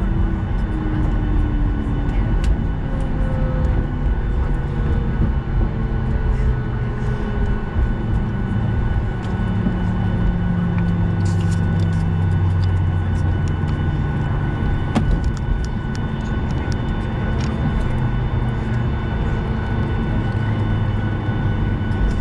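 Cabin noise inside a Southwest Airlines Boeing 737: a steady low rumble from the jet engines and airframe, with faint tones sliding down in pitch in the first few seconds. Scattered light clicks and rattles run through it.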